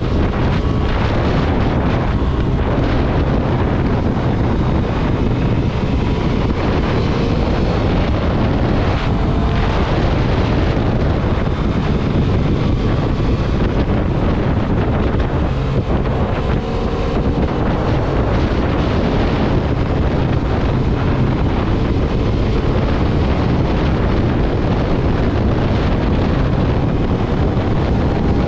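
Motorcycle riding at speed, with heavy wind noise on the microphone over the engine. The engine's note rises and falls faintly underneath.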